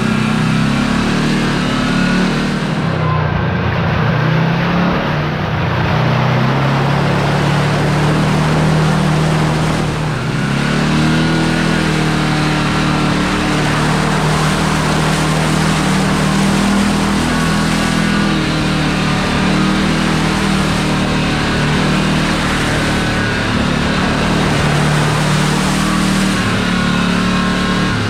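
Kawasaki Teryx KRX4 1000 side-by-side's engine running as it drives a trail, its pitch dipping and climbing with the throttle. A steady rush of noise runs underneath.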